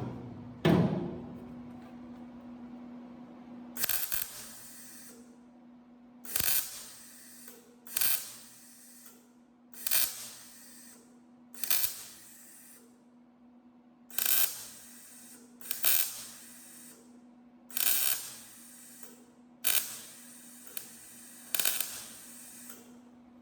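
Wire-feed (MIG) welder laying short stitch welds on a 20-gauge sheet-metal patch panel: about eleven crackling bursts of about a second each, roughly two seconds apart, over a steady low hum.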